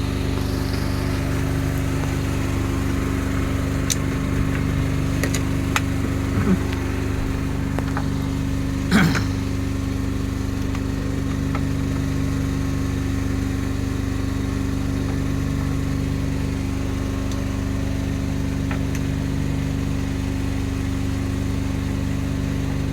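Fishing boat's engine running steadily at low revs, with a few light clicks and one louder knock about nine seconds in.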